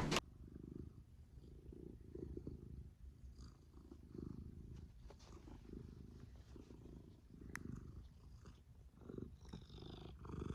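A cat purring softly, a low rumble that swells and fades about once a second with its breathing.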